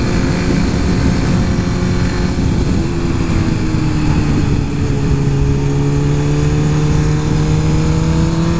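Suzuki GSX-R 1000 inline-four sport bike engine running under way, over heavy wind noise on the helmet microphone. The engine note dips a little through the middle and climbs again near the end.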